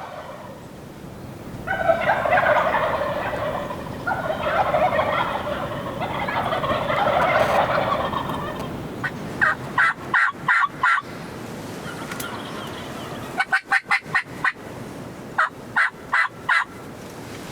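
Wild turkey gobbling: long rattling gobbles, several close together, through the first half. They are followed by three short runs of sharp, evenly spaced yelping notes.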